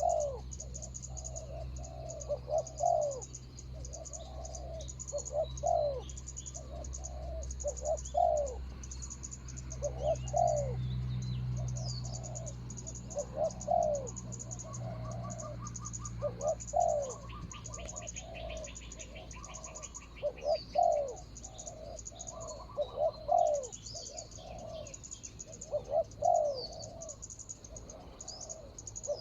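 Spotted doves cooing in repeated phrases, one every two to three seconds: a decoy dove and a wild dove answering each other. Steady high insect or bird chirping runs behind.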